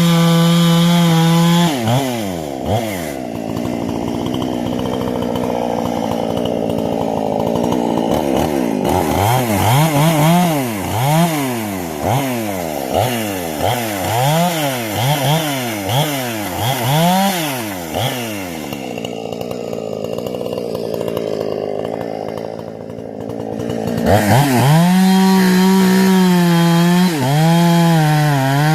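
Husqvarna 460 chainsaw's two-stroke engine, with a modified carburetor and muffler, running during break-in. It is held at high revs at first, then revved up and down repeatedly, about once a second, for several seconds. It settles lower for a while, then is held at high revs again near the end with one brief dip.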